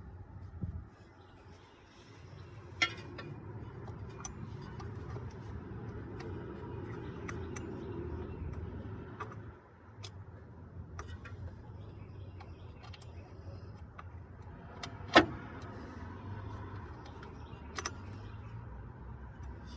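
A vehicle engine running steadily, with scattered sharp clicks and a loud knock about fifteen seconds in.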